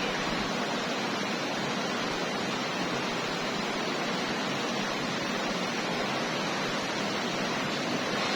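Steady, even rushing of heavy rain from a strong storm.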